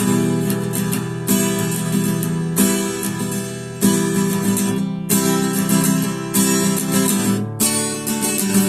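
Acoustic guitar strummed in chords, the instrumental introduction to a song, with a heavy stroke about every second and a bit and lighter strums in between.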